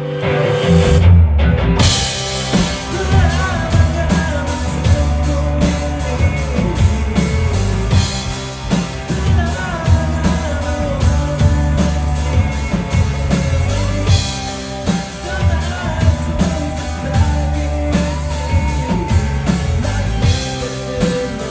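Rock band playing live: drums, bass and guitars with a sung vocal. The full band comes in about two seconds in.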